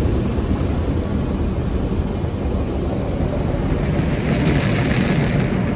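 A steady low rumble with no clear pitch, with a brief hissing rush about four seconds in.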